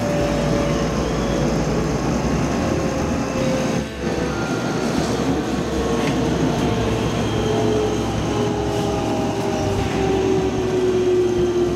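Electric commuter train slowing into a station. Several whining motor tones slowly fall in pitch as it brakes, over a steady rumble from the wheels and running gear.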